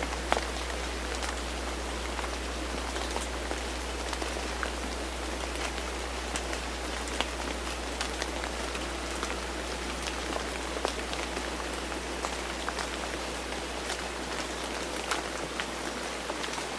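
Steady rain falling, with scattered sharper drops ticking irregularly throughout, over a low steady hum.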